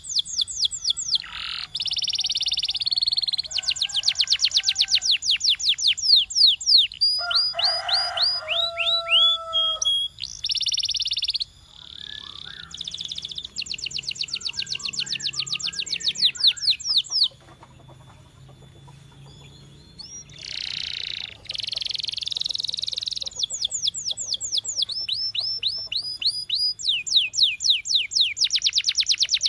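Canary singing: tours of very fast repeated chirps, broken by buzzy rolls and a few clear whistled notes, with a short lull about two-thirds of the way through.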